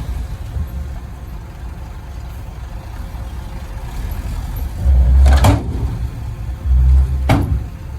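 Heavy diesel machinery engine running with a low rumble. It swells loudly twice, about five and seven seconds in, and each swell ends in a sharp clank.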